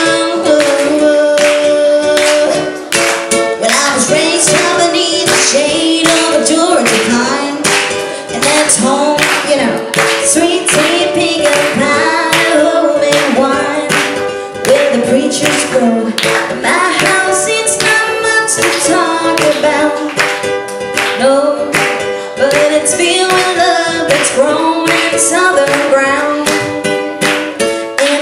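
Live music: a guitar playing the song's opening with singing, while hands clap along on the beat about twice a second.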